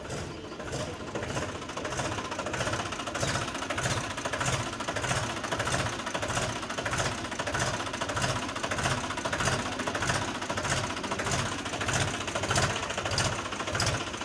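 Mahindra tractor's diesel engine running steadily with an even, rhythmic pulse.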